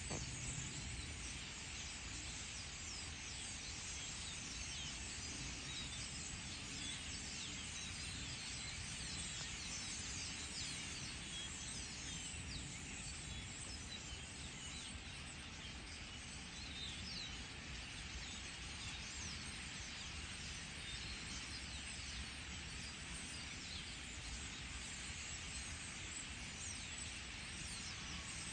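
A large flock of birds gathering to roost, many calling at once in a dense, continuous chattering chorus of short high chirps.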